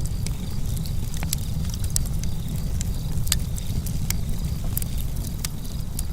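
Campfire crackling: irregular sharp pops and snaps, a strong one about three seconds in, over a steady low rumble.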